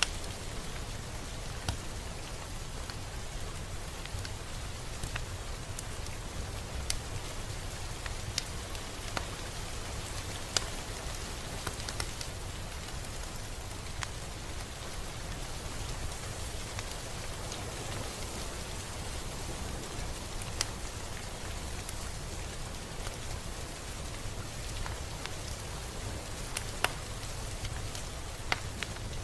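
Steady rain falling, with scattered sharper ticks of single drops striking close by.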